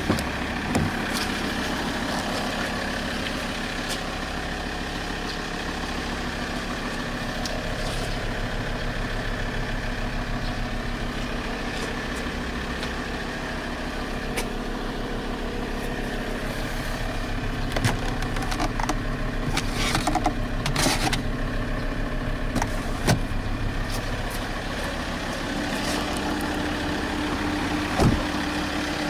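Alfa Romeo 159 2.4 JTDM's five-cylinder turbodiesel running at a steady idle, with a few sharp clicks and knocks over it.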